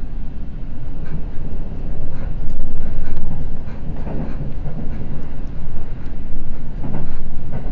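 Seibu limited express Red Arrow train at speed, heard from inside the car: a steady low running rumble with wheels knocking over rail joints now and then, swelling louder twice.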